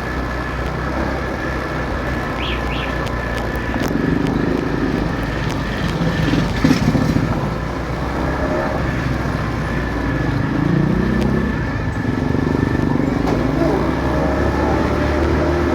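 Motorcycle running on a city road, with a steady engine and road rumble whose pitch wavers now and then. A brief louder clatter comes near the middle.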